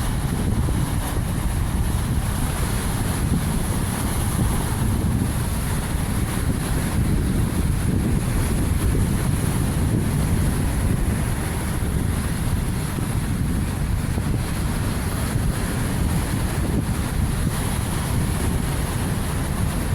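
Strong winter sea wind buffeting the microphone in a steady low rumble, over the wash of waves on the shore.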